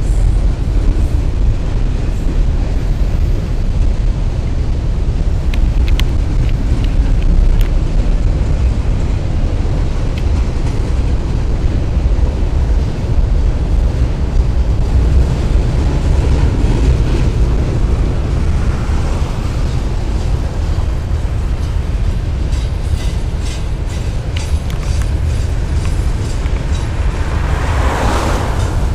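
Double-stack intermodal freight train's well cars rolling past: a steady low rumble of steel wheels on the rails, with a few light clicks.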